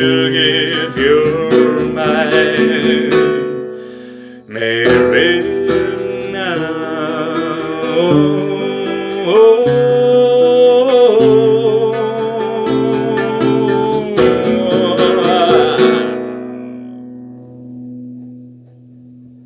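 Acoustic guitar accompanying a male voice singing the end of a ballad, with a short break about four seconds in. The song closes on a held chord that fades away over the last few seconds.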